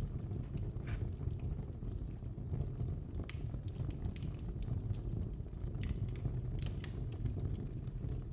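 Wood fire burning in a fireplace: a steady low rumble with scattered sharp crackles and pops, several coming close together in the second half.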